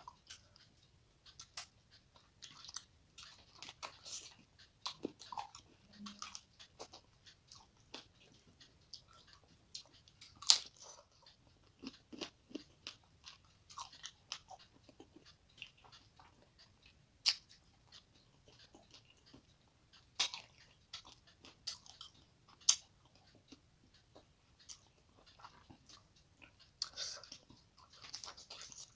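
A person chewing a mouthful of rice and rohu fish head, with irregular wet mouth clicks and sharp crunches of fish bone. A few crunches stand out much louder than the rest.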